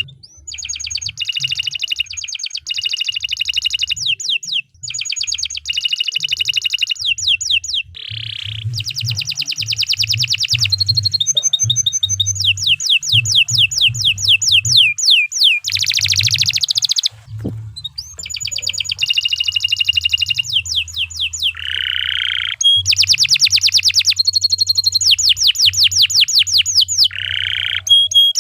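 Domestic canary singing a long, unbroken song of rapid trills: runs of fast repeated notes, each lasting a second or two, that switch between high rolls and lower buzzy notes with only brief breaks.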